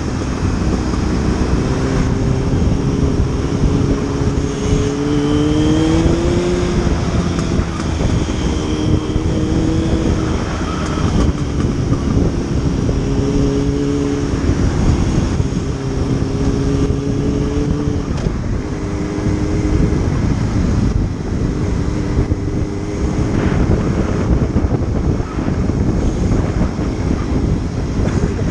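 Motorcycle riding along, its engine running under a steady rush of wind noise on the microphone; the engine note rises about six seconds in, then holds fairly steady with small shifts in pitch.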